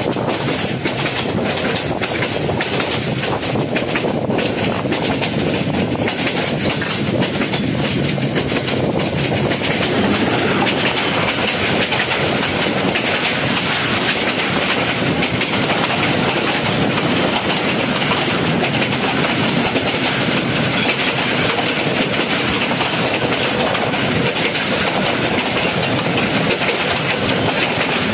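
Passenger train running at speed, heard from a carriage window: wheels clattering over rail joints with a steady rolling rush of wheels and air. The clicks are plain in the first several seconds, then a smoother, slightly louder rush takes over from about ten seconds in.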